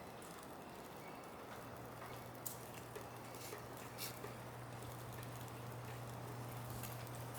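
Footsteps on snow, with a few sharper clicks, over a steady low hum that sets in about a second and a half in.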